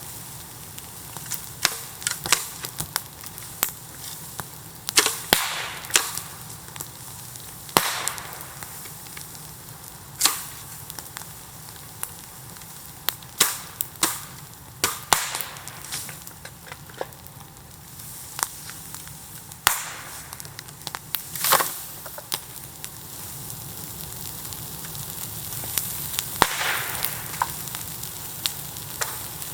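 Bamboo bonfire burning, with irregular sharp pops and cracks as the bamboo splits in the heat over a steady crackle, and a short hissing swell near the end.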